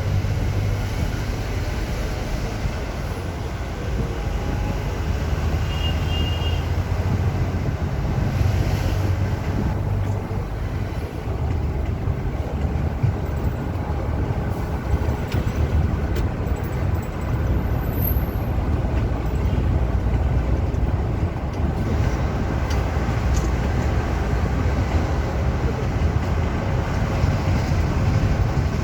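A bus at high speed: steady engine drone and road rumble with no break.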